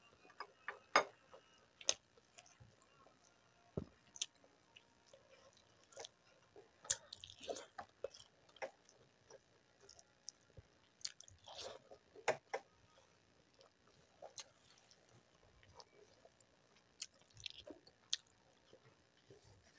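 A person chewing food close to the microphone, with wet mouth and lip-smacking sounds and scattered sharp, crunchy clicks.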